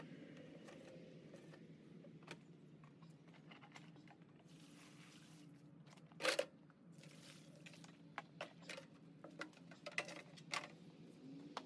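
Faint scattered clicks and knocks, with one louder short hiss-like burst about six seconds in, over a steady low hum: water being sprayed and a dirty furnace blower wheel being handled as it is cleaned.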